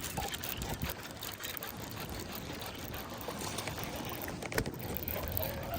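Kayak on the water, with water and hull noise throughout and a sharp knock about four and a half seconds in.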